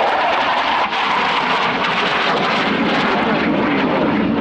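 Twin-engine F/A-18 Hornet fighter jet flying a display pass, its engines making loud, steady jet noise.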